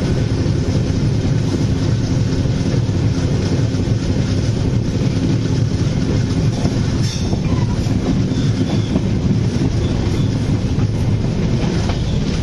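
Moving train heard from aboard, at its open side: a steady, loud rumble of wheels running on the rails, with wind rush and some clacking over the track.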